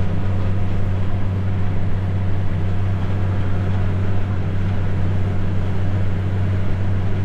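Farm tractor engine running at a steady speed, a constant low drone.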